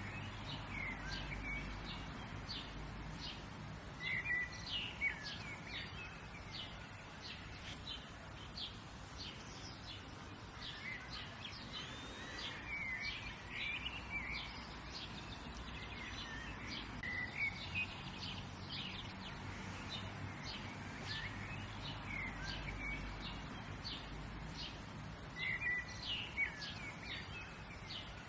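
Several small birds chirping and singing in a steady stream of short high chirps. Louder chirped phrases come a few seconds in, about the middle and near the end. A faint low rumble runs underneath.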